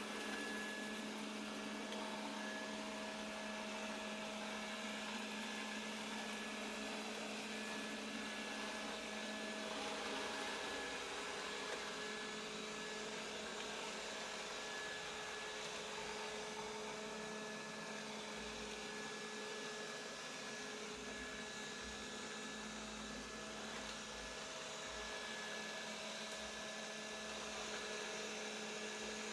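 Qihoo 360 S7 robot vacuum cleaner running: a steady motor hum with a thin high whine over a rushing noise.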